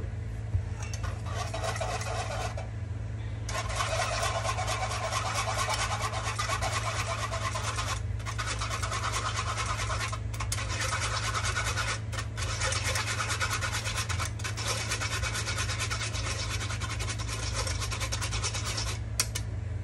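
A spoon scraping and rubbing batter through a fine-mesh strainer in quick back-and-forth strokes, pressing out lumps, with a few short pauses.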